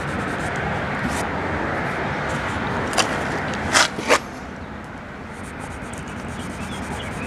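Sandpaper rubbing over a high spot in dried Bondo glaze-and-putty filler on a plastic car bumper, a steady scratching with a few sharp taps about three to four seconds in. It eases off just after that.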